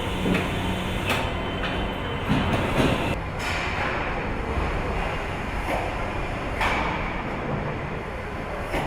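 Car assembly-line factory noise: a steady mechanical din with a few sharp clanks and knocks scattered through it.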